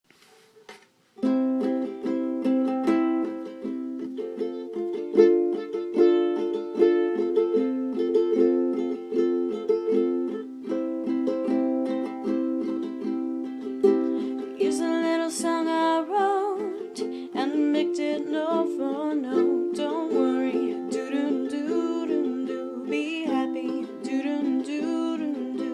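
Ukulele strumming steady chords as the song's intro, starting about a second in. About halfway through, a wordless voice joins over the strumming with a wavering melody.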